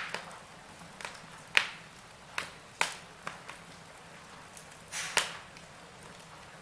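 Wood fire crackling in a fireplace: sharp, irregular pops and snaps a second or so apart, with a double pop near the end, over a faint steady hiss and a faint low hum.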